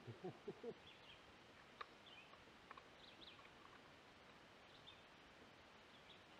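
Near silence outdoors: faint background hiss with a few scattered, short, high bird chirps and a couple of small clicks.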